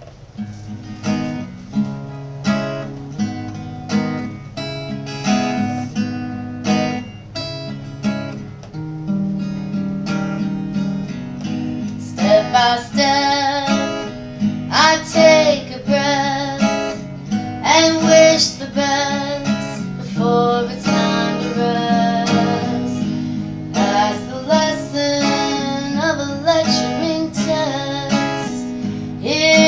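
Acoustic guitar strumming chords in a steady rhythm, the opening of a song played live. A singing voice comes in about twelve seconds in and carries on over the guitar.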